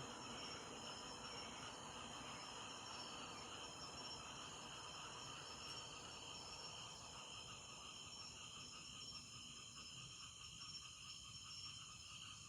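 Night insects, crickets, chirring steadily in a faint chorus of several high pitches that pulse slightly.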